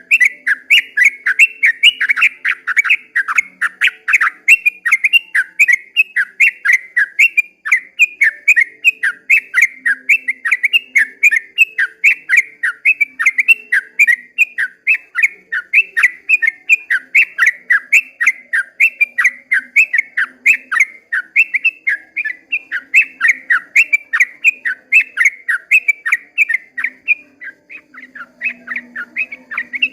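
Yellow-vented bulbul (trucukan) singing a long, unbroken run of quick, bubbling notes, about four a second.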